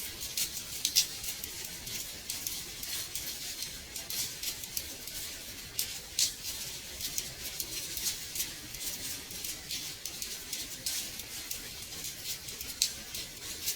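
Rain tapping on a window pane: many small, irregular ticks of drops over a soft, steady hiss.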